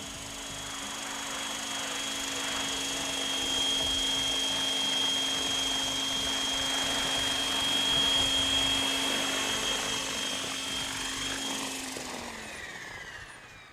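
Electric RC helicopter running: a steady motor whine over rotor noise, swelling louder and then easing off. Near the end the motor winds down with falling pitch.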